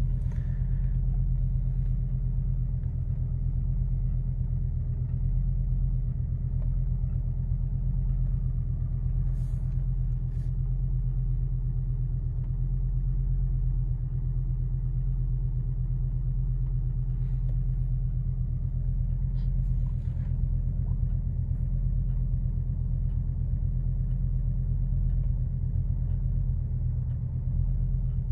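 1986 Audi 4000CS Quattro's five-cylinder engine idling steadily, heard from inside the cabin, while it warms up after a cold start.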